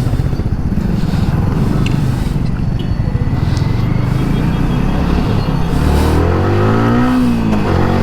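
Motorcycle engine running as the bike is ridden, rising in pitch from about five seconds in, dipping briefly near the end, then rising again.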